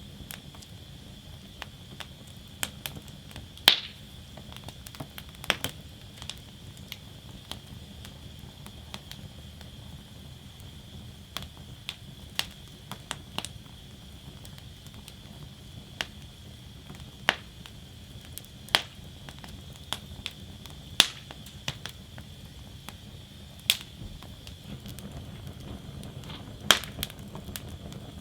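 Wood fire burning in a fire basket, crackling with sharp irregular pops of varying loudness, the loudest about four seconds in, over a steady low rumble and a faint steady high hiss.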